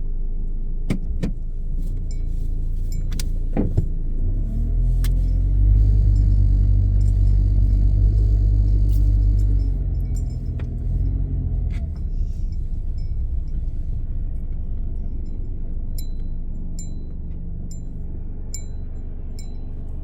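Car engine heard from inside the cabin, its pitch climbing as the car pulls away, holding for a few seconds, then easing back to a steady low run. A few sharp clicks come early on, and a regular ticking, about two a second, starts near the end.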